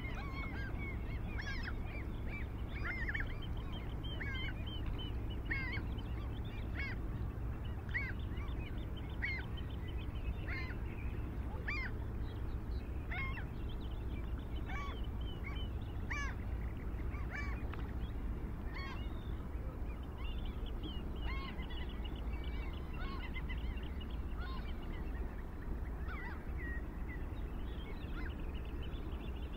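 Birds calling: short, hooked calls repeated about once a second, thinning out after about twenty seconds, over a steady low rumble.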